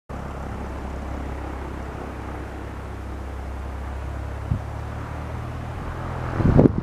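Cessna 172R Skyhawk's four-cylinder Lycoming piston engine running steadily at low power, a low, even drone. A short knock comes about four and a half seconds in, and louder uneven rumbling bursts near the end.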